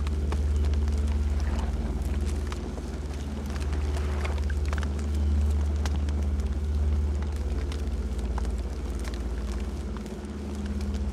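Campfire burning: a steady low rumble of flames with scattered small crackles and pops throughout.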